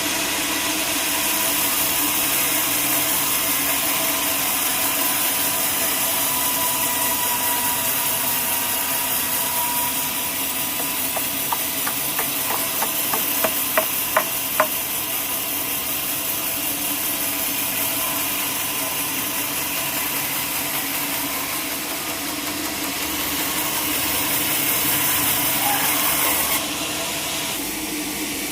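Sawmill machinery running steadily, a loud hiss with a steady hum and whine in it. About halfway through comes a quick run of about eight sharp knocks, and near the end the hiss suddenly drops away.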